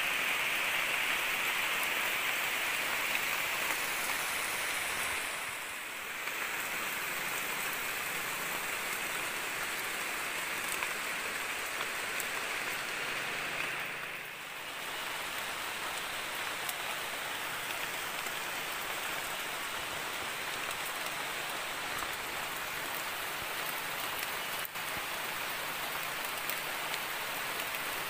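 Heavy rain falling steadily on dense forest foliage, an even hiss that dips briefly twice.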